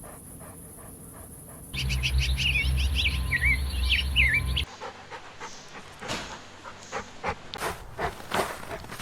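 Puppies squeaking and whimpering in many short, high, wavering cries over a low hum, followed by a string of short soft breathy noises.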